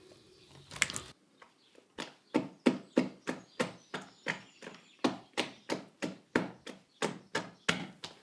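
Buckwheat galette batter being beaten by hand in a basin: rhythmic wet slaps, about three a second, starting about two seconds in with a short pause midway.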